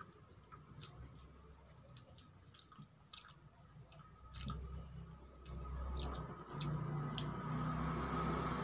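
Wet chewing and lip-smacking of rice and egg curry eaten by hand, with sharp mouth clicks. About halfway through, a low droning hum swells in and becomes the loudest sound.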